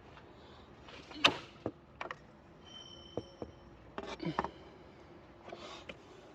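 Scattered clicks and knocks of tools and parts being handled during work on a car's wiper assembly, the loudest a single sharp knock about a second in and a quick cluster of knocks a little past the middle.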